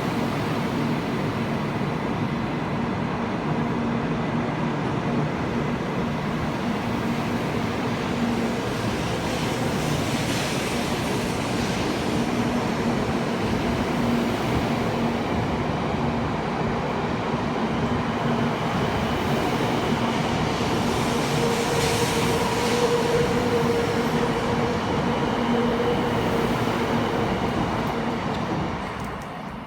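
Shinkansen train running alongside the platform, a steady rumble of wheels and air with a low hum, fading away near the end.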